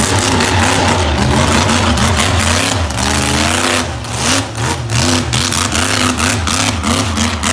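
A vehicle engine revving up and down over and over above a steady low running note.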